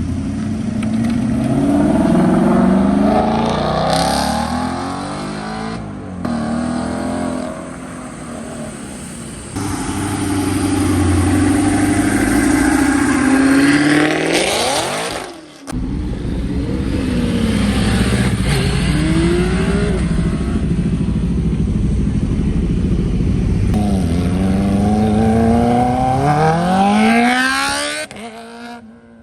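Loud modified car engines revving and accelerating hard, several runs that climb in pitch. The sound breaks off suddenly a few times, and a final long rising pull comes near the end.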